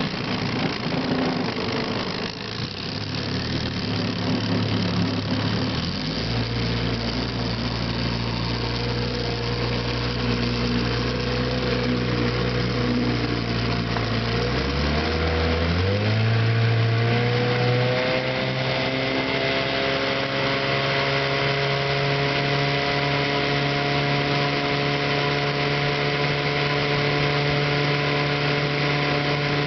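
Evinrude Sportwin 9.5 hp two-cylinder two-stroke outboard motor running steadily under load. About halfway through, its pitch rises as the throttle is opened, then it holds at the higher speed.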